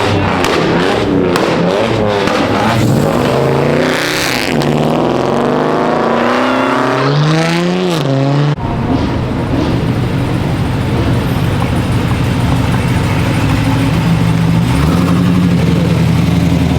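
A car engine revving loudly, its pitch repeatedly climbing and dropping. After an abrupt break it settles into a steady loud run that rises again near the end.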